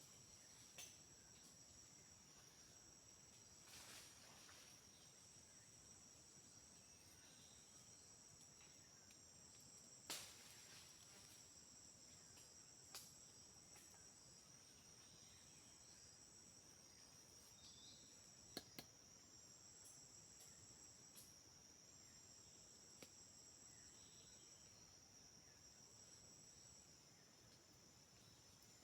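Faint, steady high-pitched insect chorus, with a second, higher buzz that starts and stops every few seconds. A few soft clicks and knocks are scattered through it.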